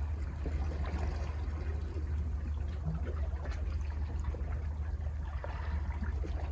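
Sea waves washing over rocks at the foot of cliffs: a steady low rumble under a haze of water sound with small crackles.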